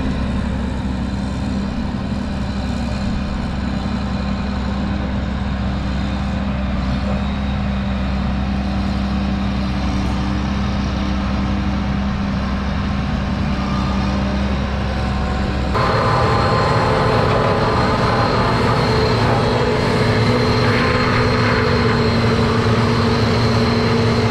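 Self-propelled swather's engine running steadily as it cuts a stand of tall sorghum. About two-thirds of the way through the sound shifts abruptly and becomes a little louder.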